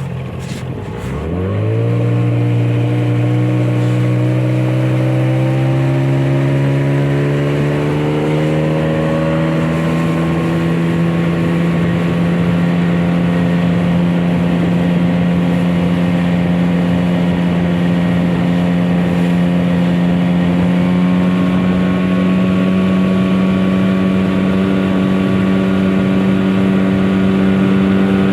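Hangkai 9.9 hp outboard motor opened up to full throttle. Its pitch jumps up sharply in the first two seconds, keeps rising slowly for several more seconds as the boat gathers speed, then holds at a steady high pitch. Running into a headwind with a 12-pitch Chinese propeller, the engine tops out at around 4200 to 4600 rpm.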